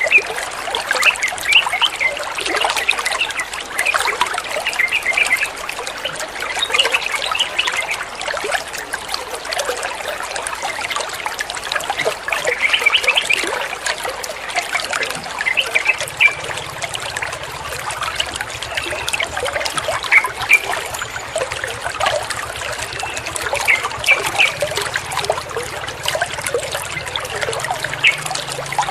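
Water trickling and splashing steadily, with many small bright drips and gurgles.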